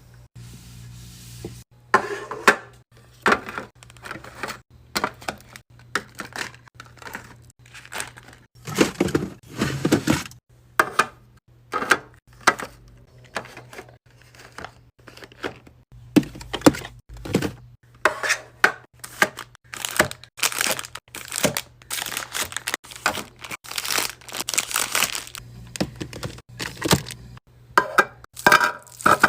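Packaging crinkling and items clicking and knocking as they are handled and set down, in many short irregular bursts over a steady low hum.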